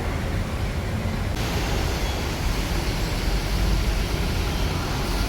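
Heavy rain falling as a steady hiss over a low rumble, the hiss growing stronger about a second and a half in.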